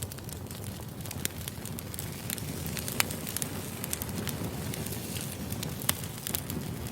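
Wood fire burning: a steady low rumble of flames with frequent sharp crackles and pops of the firewood, the loudest pops about three seconds in and near six seconds.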